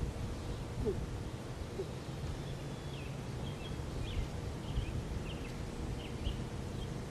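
Outdoor ambience: a steady low rumble with small birds chirping faintly in short, scattered calls through the middle.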